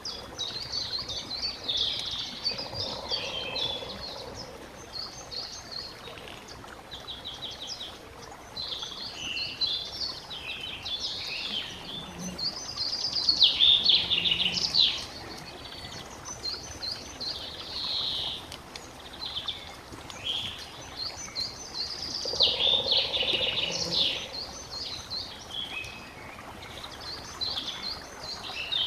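Several songbirds singing and calling at once, a dense overlapping chorus of chirps and rapid trills over a steady outdoor background hiss, busiest about halfway through.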